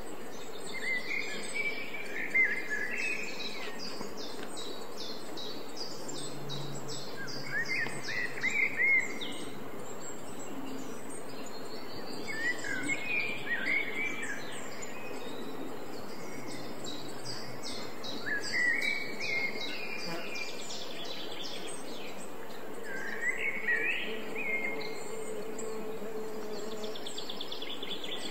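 Songbirds singing short warbling phrases that come back about every five seconds, with fast high ticking trills between them over a steady outdoor hiss.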